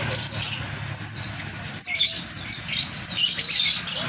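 Many caged birds chirping together: short, high chirps that repeat quickly and overlap.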